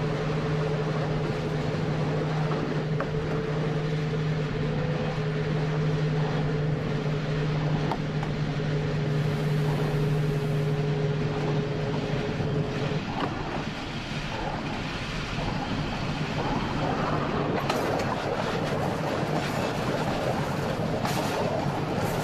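Electric train running along the track: a steady electric hum over the rumble and hiss of wheels on rail. The hum stops about thirteen seconds in, leaving the track noise, with a few light clicks near the end.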